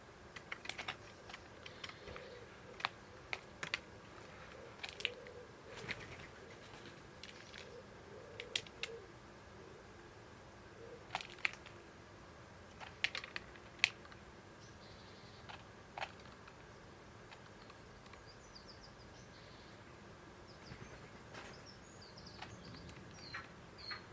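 Birds at a feeder: irregular sharp taps and clicks of beaks pecking at seed, several close together at times. Faint high bird chirps come in during the last few seconds.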